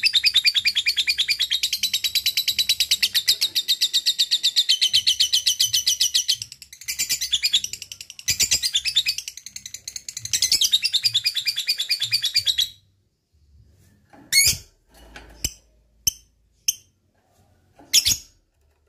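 Lovebird singing its long 'ngekek' chatter: a fast, rapidly repeated run of high, harsh notes, broken by two short pauses, that stops about two-thirds of the way through. It is followed by a few short separate chirps.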